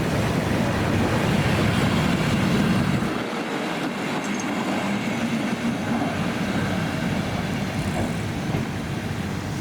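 A train running past on the rails, its rumbling wheel noise dropping off about three seconds in as it moves away.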